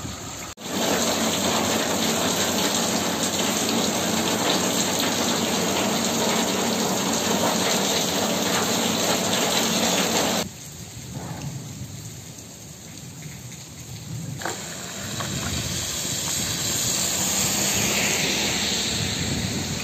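Heavy rain falling on a street, with water running along the kerb: a loud, even hiss that cuts off abruptly about halfway through. After a quieter stretch the rain noise builds again, with a car's tyres hissing on the wet road as it approaches near the end.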